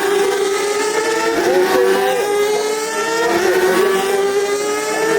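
Racing superbike engine at high revs, its note climbing slowly as the bike accelerates.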